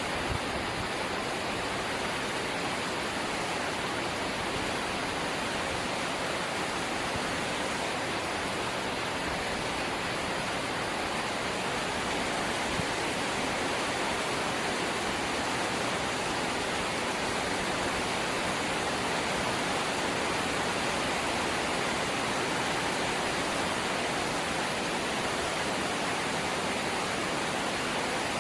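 Light rain falling as a steady, even hiss, with no single drops or gusts standing out.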